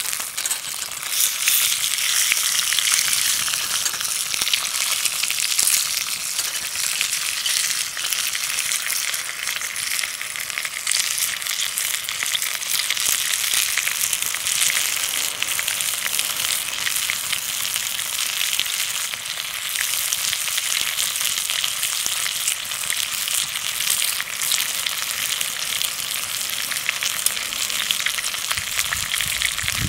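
Food frying in hot fat in a skillet: a steady sizzle dense with fine crackles and spits, holding an even level throughout.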